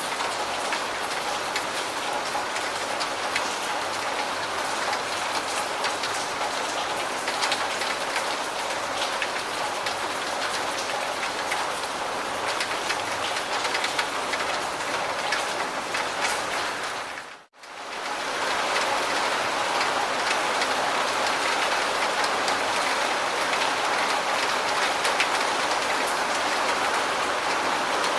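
Steady rain falling, a dense even patter of many small drops. About two-thirds of the way through it fades out to near silence for under a second and fades back in.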